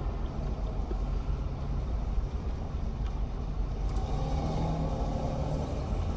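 Steady low vehicle rumble. From about four seconds in, a truck's engine tone rises over it as the truck drives past close by.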